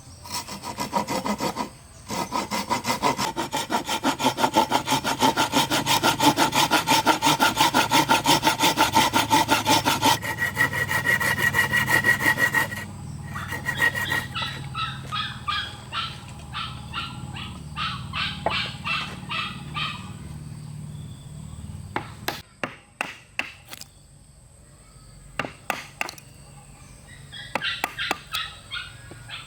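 Hand saw cutting through wood in quick, steady back-and-forth strokes, then slower, looser strokes. A few sharp knocks follow, and the sawing starts again near the end.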